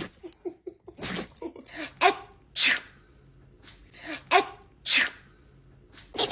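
Dog sneezing, several short sharp sneezes in a row with brief pauses between them.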